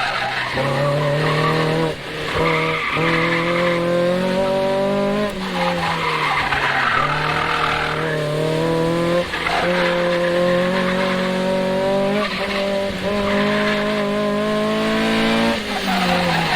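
Mazda Miata four-cylinder engine on an autocross run, revving up and down hard with several abrupt drops in pitch as the driver lifts or shifts. Tyres squeal through the corners.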